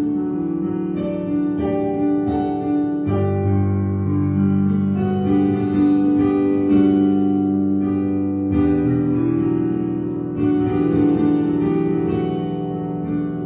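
Slow instrumental keyboard music, sustained piano-like chords that change every few seconds.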